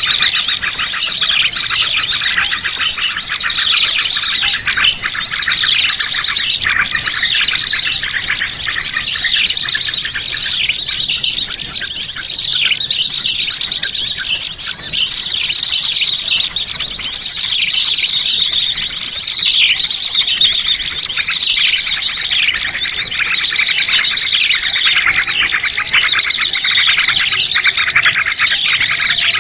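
A dense, loud chorus of many small birds chirping and trilling at once, fast overlapping calls with no break: a bird-trapping lure (pikat) recording of the kind played to draw birds into a trap.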